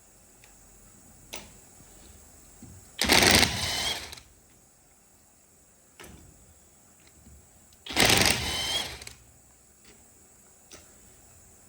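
A power tool runs in two short bursts of about a second each, a few seconds apart, with light clicks of metal parts between them, as a truck steering column is taken apart.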